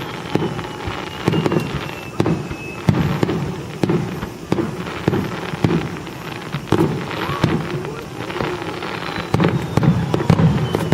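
Aerial fireworks going off one after another, a quick string of sharp bangs and crackles that ring out and roll away. A faint falling whistle sounds in the first few seconds.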